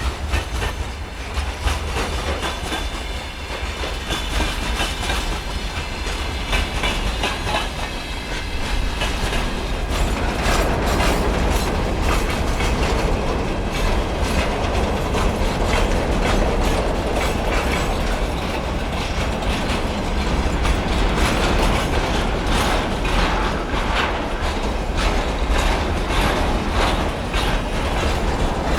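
A train running past on the line, its wheels clattering steadily over the rail joints, growing a little louder about ten seconds in. A faint high-pitched squeal sounds over the first several seconds, and a steady low rumble runs underneath.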